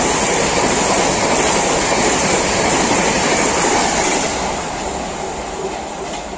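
Express train of red-and-grey Rajdhani-style coaches passing at speed: steady wheel rumble with a clickety-clack over the rail joints about three times a second. It fades from about four seconds in as the last coach draws away.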